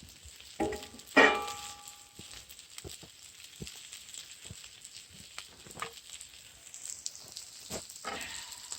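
Chicken and onion frying over a campfire: a steady faint sizzle with scattered pops and crackles. About a second in there are two louder clatters, the second with a short metallic ring, like a utensil knocking the cookware.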